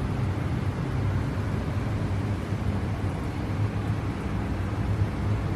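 Steady low rumble and hiss of airflow and engines inside an airliner's cockpit on approach.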